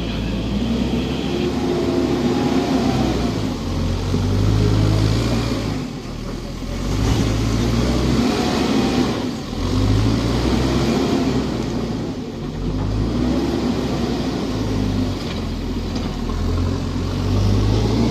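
Heavy earth-moving machine's diesel engine running, its revs rising and falling every couple of seconds as it works under load.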